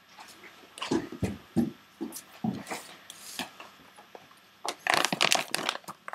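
Irregular knocks and rustling of objects being handled, with a dense flurry of clatter and rustle near the end.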